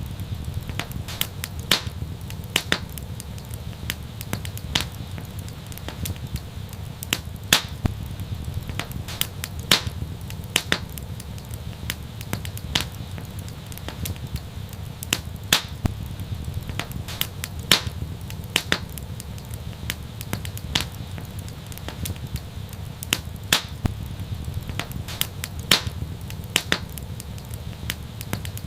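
Fireplace fire crackling: irregular sharp pops and snaps, some much louder than others, over a steady low rumble of the flames.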